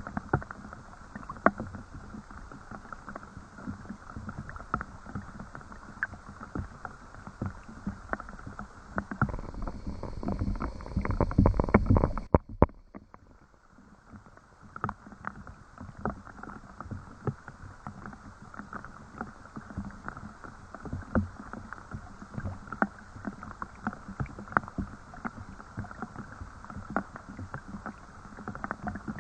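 Rain falling, with many separate drops tapping close by. About nine seconds in, a louder low rumble builds for a few seconds, then cuts off suddenly, and the dripping returns shortly after.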